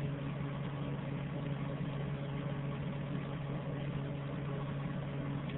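A steady low hum with a hiss over it, unchanging throughout, like a motor or appliance running.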